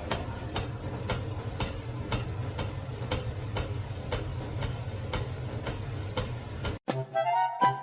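Regular ticking, about three ticks a second, over a low steady hum. It cuts off suddenly near the end, and music starts.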